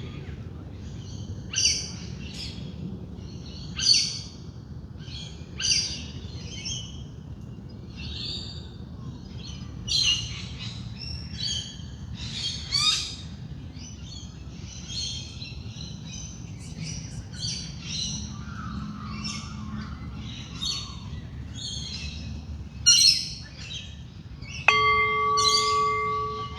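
A dawn chorus of wild birds, many short chirps and calls overlapping one after another. Near the end a singing bowl is struck once and rings on with a steady tone.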